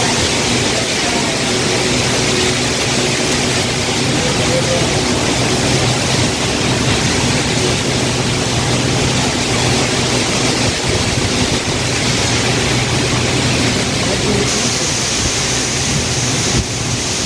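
Heavy rain pouring steadily, a dense even hiss, with a faint low steady hum underneath.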